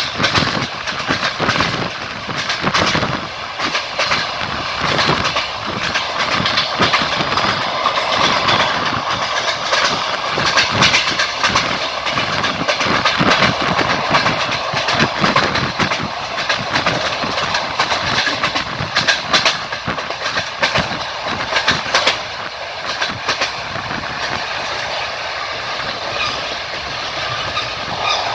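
Railway train running along the track: wheels clattering over the rails, with a steady rolling noise and frequent knocks and rattles.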